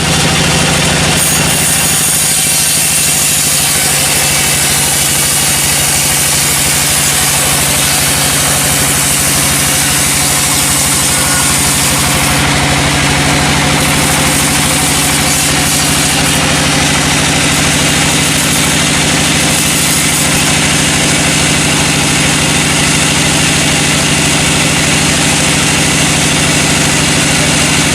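Sawmill machinery running steadily: an engine-like drone with a constant low hum, overlaid by a bright hiss that drops back for a couple of seconds about halfway through.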